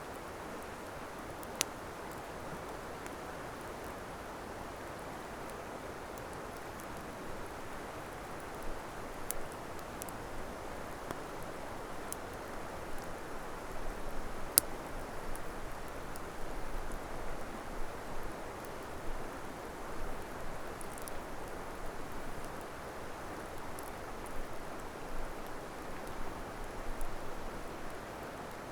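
Wood campfire burning: scattered sharp crackles and pops over a steady rushing noise. The crackling grows busier and a little louder from about halfway through.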